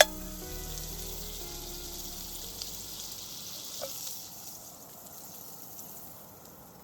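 Pancakes sizzling in a frying pan, a steady high hiss that softens near the end. Background music fades out about three seconds in.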